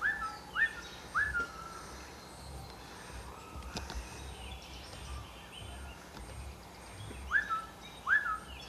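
Pet parrot giving short, sharp whistled chirps, each rising quickly and then dropping. They come in a quick run of three at the start and another run near the end.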